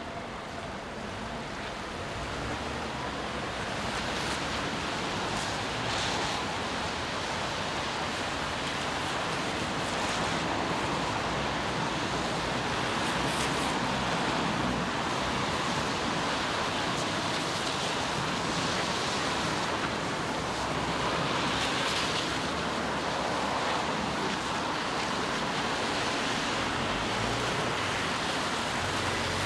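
Steady hiss of rain on a city street, with a few swells of tyres swishing on the wet road as cars pass.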